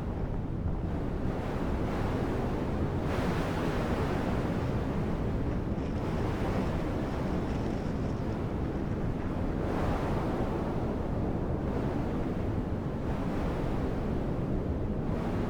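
Wind blowing hard across the microphone, a steady low rumble with gusts that swell about three seconds in and again around ten seconds.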